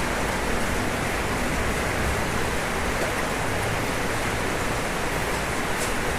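Steady rain falling on a roof, an even hiss with no let-up.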